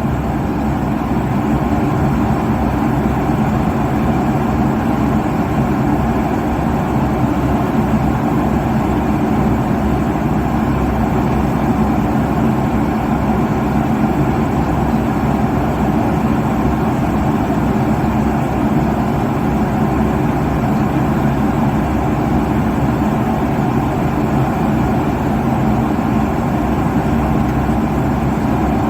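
Steady roar of a jet airliner's cabin at cruise, heard from inside the cabin: engine and airflow noise that holds an even level, strongest in the low end, with a faint low hum.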